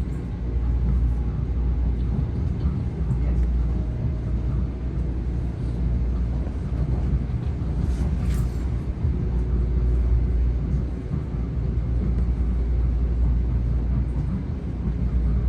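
Metro-North M7A electric multiple-unit train running between stations, with a steady low rumble of wheels on rail. A brief hiss sounds about eight seconds in.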